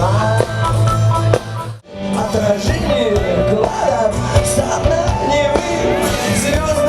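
Live rock band playing, with a sudden break about two seconds in, after which a singer's voice carries over the band.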